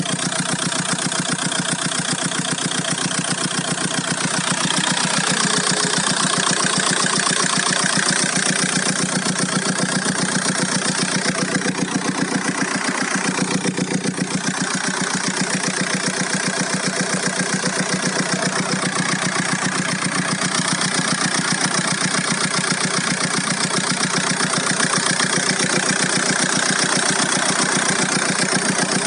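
Volkswagen Golf 4's 1.9 TDI four-cylinder turbodiesel engine idling steadily with a fast, even pulsing beat. A strange noise runs through it that the owner cannot identify.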